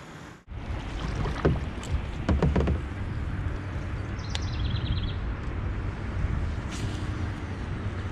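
Kayak on a river: a steady rumble of water and wind, with a few hollow knocks against the hull and a short run of high chirps about four seconds in.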